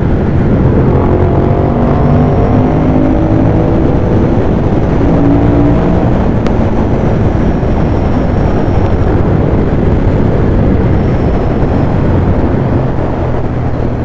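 Ducati Monster 821's L-twin engine running hard under way, its pitch climbing slowly over the first several seconds as the bike accelerates, then holding steady.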